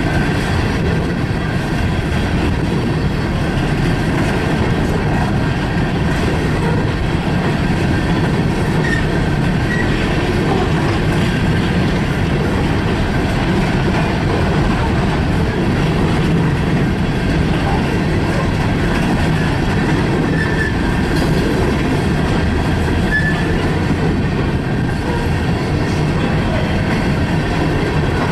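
Freight train rolling past on the track: a steady, unbroken rumble of cars on the rails.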